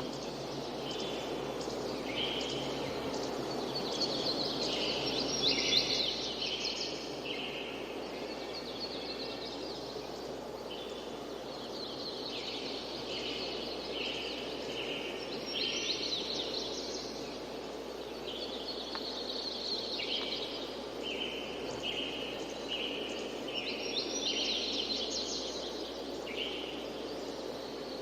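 Songbirds singing repeated phrases of quick chirps and trills every few seconds, over a steady rushing background noise.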